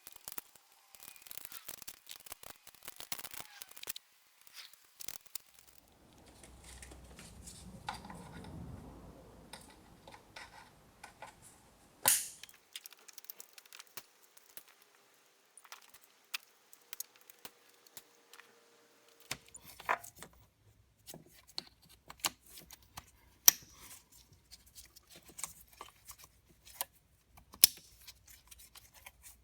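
Irregular clicks, taps and short scraping noises of hand tools and engine parts being handled, with one sharp knock about twelve seconds in.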